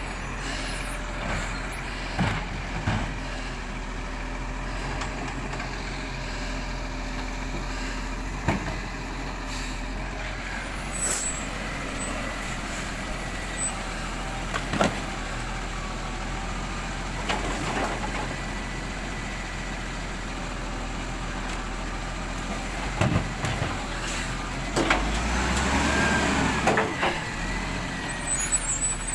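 Waste collection truck working a street: its diesel engine runs steadily, broken by several sharp clunks and air-brake hisses. There is a louder stretch of mechanical noise near the end.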